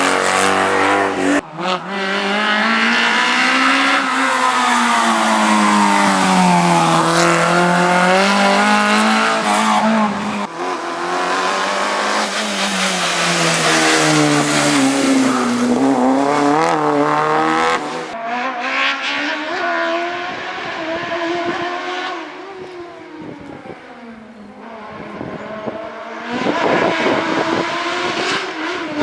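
Slalom race car engines revving hard, the note climbing and dropping again and again as the cars accelerate and lift through the chicanes. The sound cuts sharply a few times, goes quieter about two-thirds through, and grows loud again near the end.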